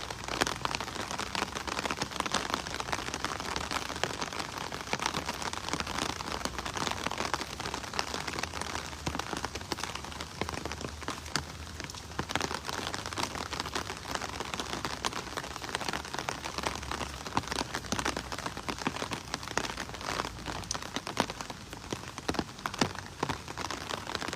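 Heavy hailstorm: hailstones and rain pelting down steadily, a dense clatter of many small sharp impacts.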